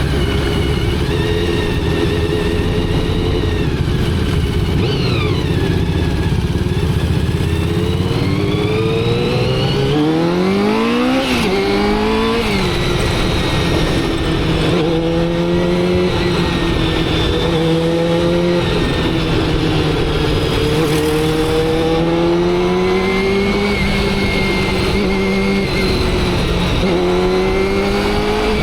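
Motorcycle engine running while riding. About ten seconds in its pitch climbs sharply and drops back about two seconds later, and after that it keeps rising and dipping in shorter steps as the throttle opens and closes.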